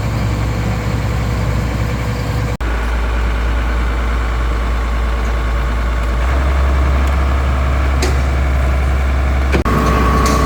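A large engine running steadily with a low drone. The sound breaks off and changes abruptly twice, about a quarter of the way in and again near the end.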